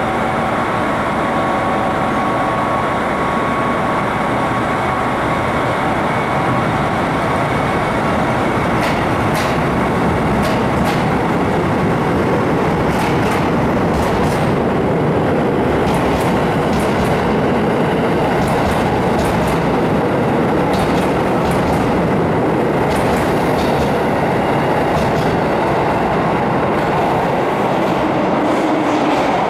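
JR Hokkaido 721 series electric train pulling out of a station platform: its motors and steel wheels run steadily as the cars pass. From about nine seconds in, the wheels click sharply over rail joints.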